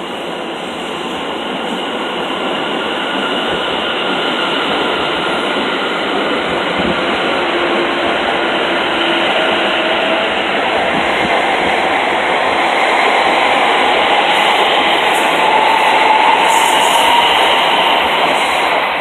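Class 720 Aventra electric multiple unit running past on test, its loud running noise growing steadily louder, with a faint whine that rises slowly in pitch as it picks up speed.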